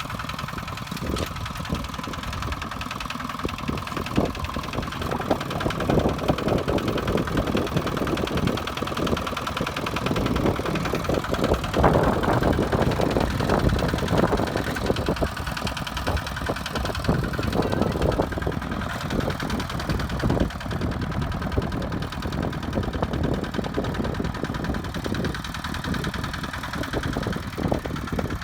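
Kubota two-wheel walking tractor's single-cylinder diesel engine running, its level swelling and easing a little.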